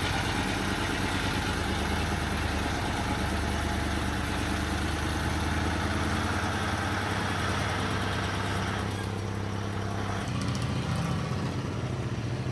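A truck engine running steadily, with a change in its note about ten seconds in.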